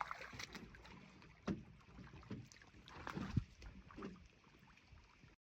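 A few separate dull knocks and bumps over a faint background hiss, the loudest a little past three seconds in; the sound cuts off suddenly near the end.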